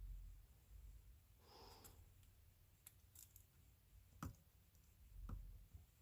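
Near silence: a faint breath and a few small, soft clicks of handling during soldering work.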